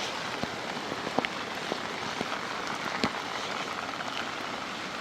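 Rain falling steadily, an even hiss with scattered sharper drops striking close by.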